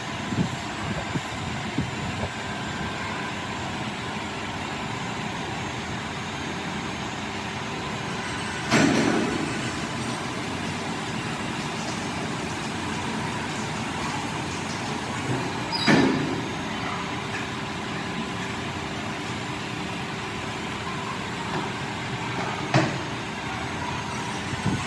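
Steady mechanical noise with three loud, sharp knocks, the first about a third of the way in, the second just past the middle, the third near the end.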